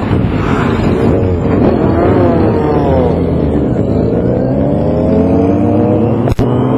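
Several motorcycle engines running at road speed, their pitch rising and falling as the riders accelerate and ease off, over a steady low rumble. The sound cuts out for an instant near the end.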